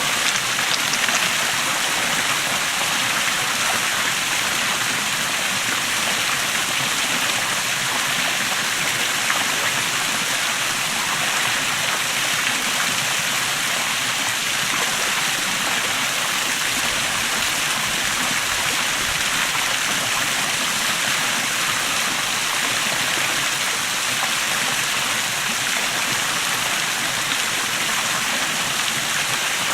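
Small waterfall: water running and splashing steadily into a stream, an even, unbroken rushing.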